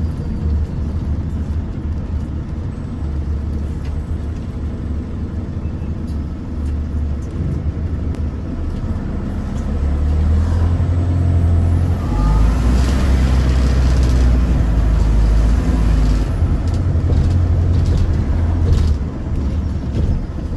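A London bus's engine and drivetrain heard from inside the passenger cabin while driving, a steady low drone that gets louder from about ten seconds in and is loudest for a few seconds after that, with a rush of hiss over the top.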